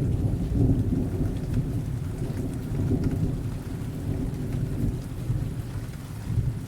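Thunder rumbling low over steady rainfall. The rumble eases off through the middle and swells again near the end.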